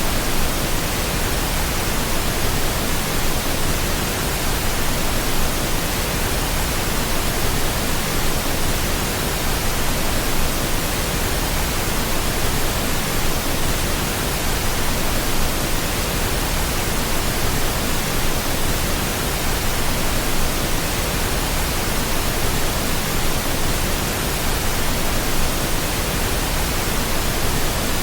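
Steady pink noise: an even, unchanging hiss spread across the whole range, played as a sleep aid for a baby.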